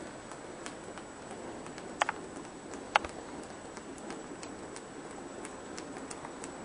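Rain: a steady patter with scattered drops ticking irregularly on a hard surface, and two sharper, louder drips about two and three seconds in.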